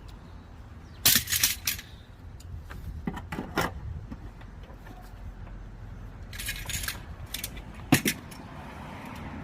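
Clattering and clinking of metal parts and tools during bodywork on a damaged car, in short jangling bursts about a second in, around three seconds in and around six and a half seconds in, with one sharp knock near the end.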